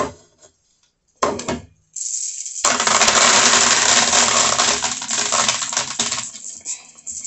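Small glass bead gems clattering together in a container as they are mixed: two short rattles first, then a dense, loud clatter of many small hard pieces lasting about four seconds before it dies away.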